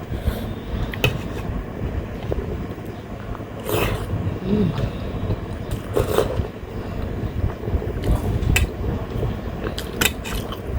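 Close-up eating sounds: chewing and mouth clicks, with two louder noisy bursts about four and six seconds in, over a steady low rumble from an electric fan.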